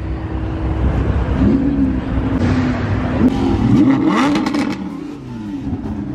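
Lamborghini Aventador SVJ V12 with a Gintani F1 exhaust being revved in repeated quick blips, its pitch rising and falling each time, with a burst of sharp exhaust crackles and pops about four seconds in.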